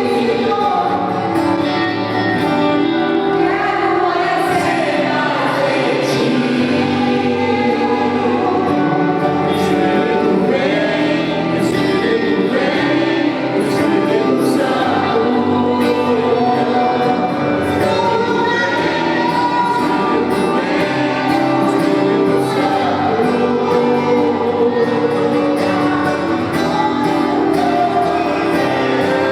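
Gospel worship song sung by a praise team and congregation together, with instrumental accompaniment.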